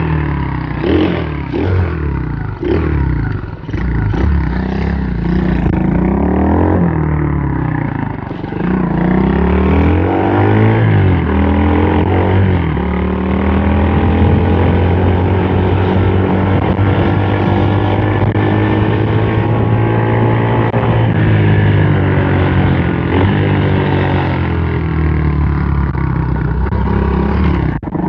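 M2R KX110F pit bike's 110cc four-stroke single running under throttle. It blips unevenly for the first few seconds, then revs up and holds a steady high note for several seconds before easing off and pulling again.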